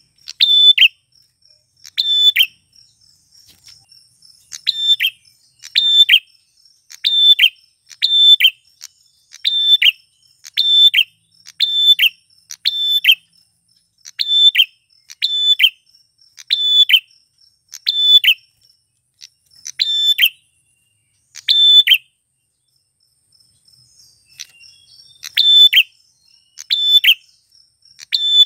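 Male prenjak klawu (a prinia) calling: a short, sharp chirp repeated about once a second, with a pause of a few seconds about three-quarters of the way through before the calls resume. A faint steady high insect-like tone sounds behind.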